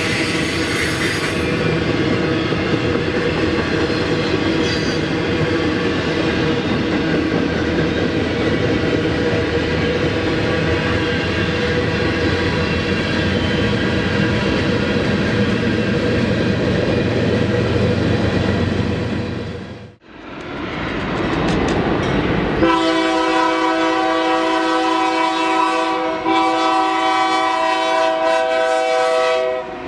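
Freight train rolling past a grade crossing, with steady wheel and railcar noise. After a cut, a locomotive air horn sounds: one long blast, a brief break, then another long blast.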